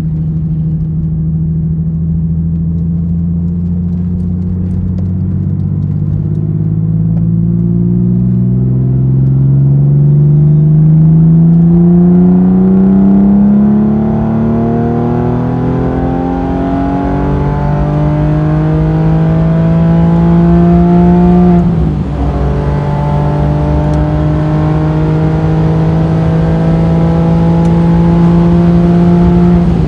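Porsche 911 (996) Carrera 4 flat-six with its catalytic converters removed, heard from inside the cabin as it accelerates through the gears. The engine note holds steady for a few seconds, then climbs, drops back at a gear change around 15 seconds in and again about 22 seconds in, and climbs again.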